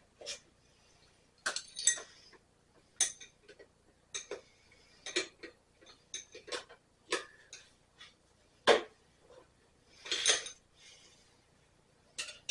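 Metal tools and engine parts clinking and knocking at irregular intervals as they are handled. The loudest is a sharp knock about two-thirds of the way in, followed by a longer rattling clatter; there is no engine running.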